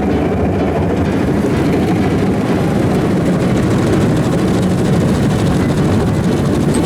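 Automatic car wash machine working over the car, heard from inside the cabin: a loud, steady rumble of machinery.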